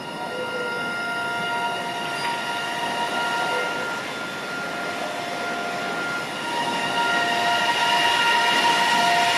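JR East EV-E301 series battery-electric train running on battery power on a non-electrified line, with the steady multi-tone whine of its Mitsubishi IGBT-VVVF inverter and traction motors over rail and running noise. The whine grows louder about two-thirds of the way in.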